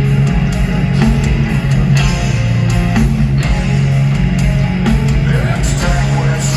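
Heavy metal band playing live: distorted electric guitars over bass and drums, holding low, heavy notes in a slow riff.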